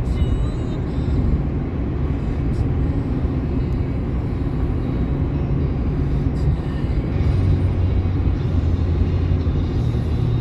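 Truck cruising on the highway, heard from inside the cab: a steady low engine and road drone. The low hum grows a little stronger about seven seconds in.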